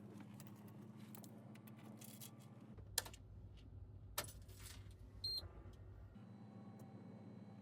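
Faint steady low hum inside a mobile crane's cab, with a few sharp clicks from handling about three and four seconds in and a short high electronic beep a little after five seconds.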